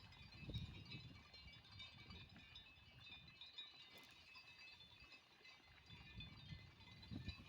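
Near silence: faint outdoor ambience, with low rumbles about half a second in and again near the end, and faint scattered high chirps throughout.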